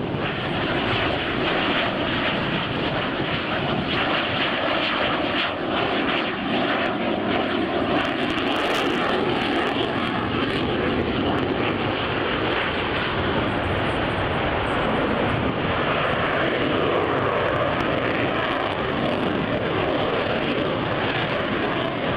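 Aircraft engine noise, loud and steady throughout, from an aircraft flying a display, with a faint tone sliding slowly down in pitch during the first half.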